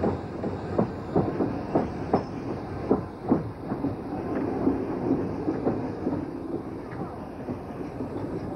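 Narrow-gauge train running, with a quick, uneven series of sharp clacks and beats. These thin out after about four seconds into a steadier running noise.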